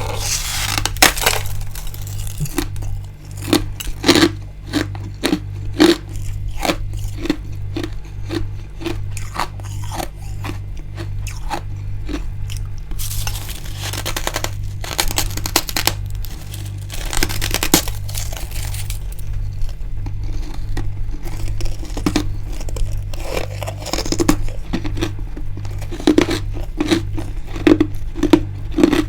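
Freezer frost being bitten and chewed close to the microphone: crisp crunching with several longer bursts of crushing, and steady chewing at about two chews a second in between.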